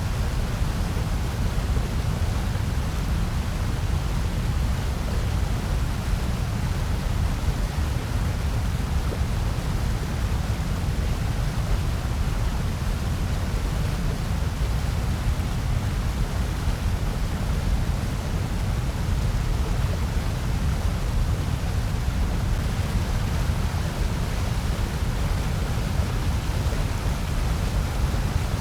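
Steady, unchanging generated noise of the white-noise-for-sleep kind: an even static hiss carrying most of its weight in a low rumble, with a band of hiss higher up.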